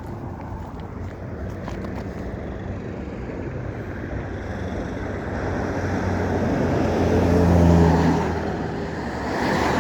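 A passing engine-driven vehicle: a low hum over a steady rush, growing louder to a peak about eight seconds in and then fading.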